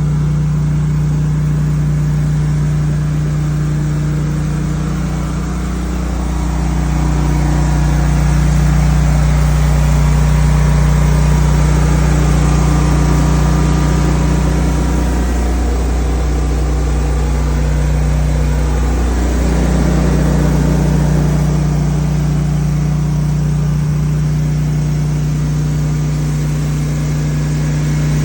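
Briggs & Stratton backup generator's engine running at a steady speed, a constant hum with a couple of brief wobbles in pitch past the middle.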